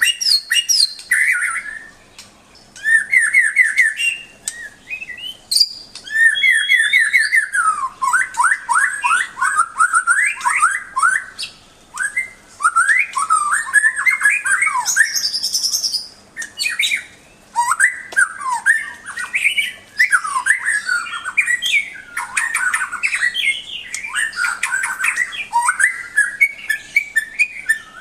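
White-rumped shama (murai batu) singing a long, varied song: fast trills and quick runs of repeated notes mixed with clear whistled glides, in phrases separated by short pauses.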